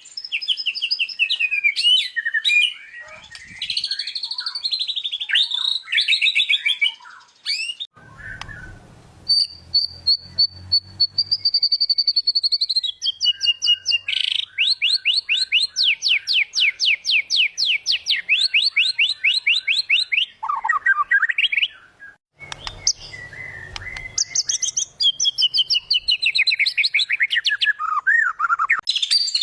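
White-rumped shama (murai batu) singing a long, varied song that runs through warbled phrases, a long held whistle and a fast run of rapidly repeated notes. This is the bird in full song, showing off its repertoire of mimicked phrases. A low rumble sounds briefly twice under the song, about a third of the way in and again later.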